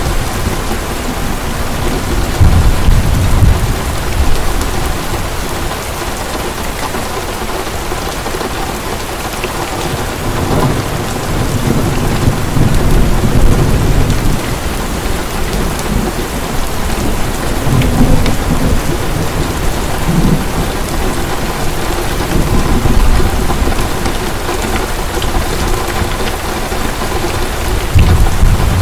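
Heavy rain pouring steadily, with low rolls of thunder swelling and fading several times.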